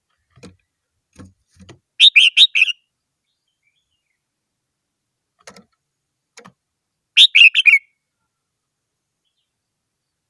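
Red-whiskered bulbul singing: two short, quick phrases of several notes each, about five seconds apart, with a few faint soft knocks in between.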